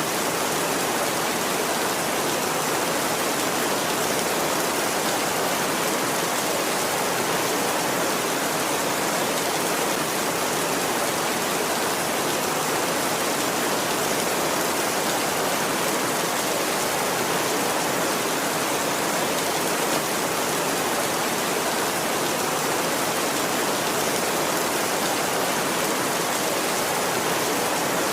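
Heavy rain falling steadily on a tin roof, an even hiss with no thunder.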